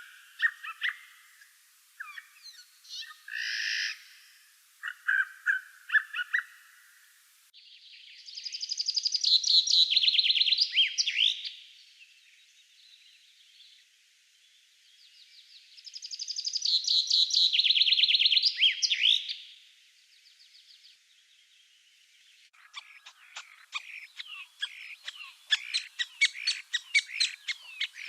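Birds singing: scattered short calls at first, then two long rapid trilled songs of about three seconds each, then a dense run of chirps from about three-quarters of the way in. The background changes abruptly twice, as if separate recordings were cut together.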